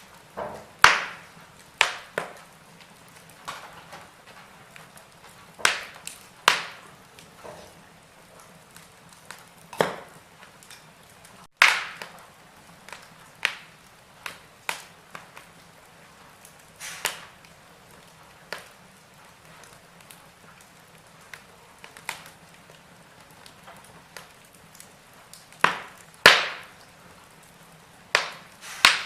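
Wood fire crackling in a fireplace: sharp, irregular pops and snaps every second or two over a faint steady hiss.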